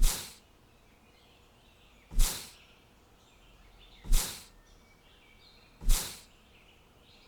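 Four short rushing noise bursts about two seconds apart, each starting sharply and fading quickly, with faint bird chirps between them.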